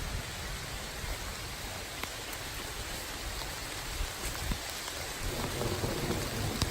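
Steady rain falling, an even hiss with scattered ticks of single drops. A low rumble builds near the end.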